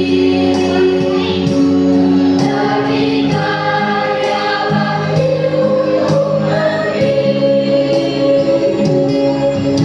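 Junior high school choir singing, holding long sustained chords over a steady beat.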